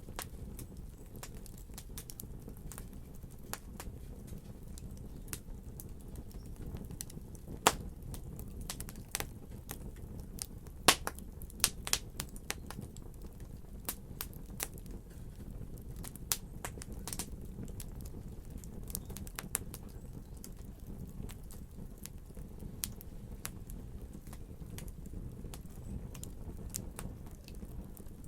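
Wood fire crackling in a fireplace: a steady low hiss of the flames with frequent sharp pops and snaps, a few louder ones about a third of the way in.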